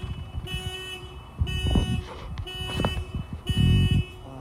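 Car alarm pulsing on and off about once a second. Two louder bursts of low rumble come about one and a half seconds and three and a half seconds in.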